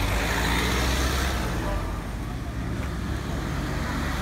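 Car engine running with a deep, steady low rumble as the car moves off slowly through street traffic. The rumble is loudest in the first two seconds.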